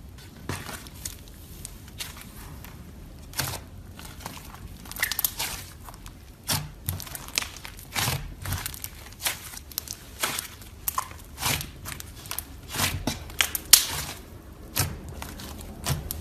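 Butter slime being squished and pulled by hand, giving irregular sticky crackles and pops a few times a second.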